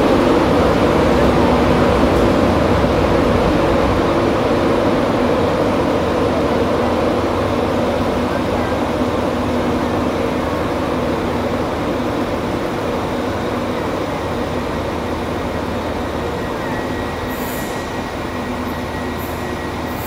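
LNER Class 91 electric locomotive pulling out of the station, a steady hum growing slowly fainter as it moves away. A thin high wheel squeal and a few faint clicks come in near the end.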